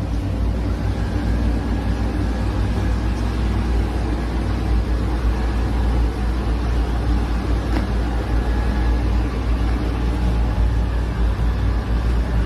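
Roomba robot vacuum running close to a phone microphone: a steady motor and brush noise over a low rumble, with a faint high whine.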